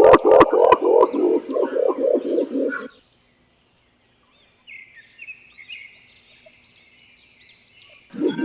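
Green imperial pigeon calling: a quick run of deep, low hooting notes that breaks off abruptly after about three seconds. Faint high chirps follow, and the deep hooting starts again just at the end.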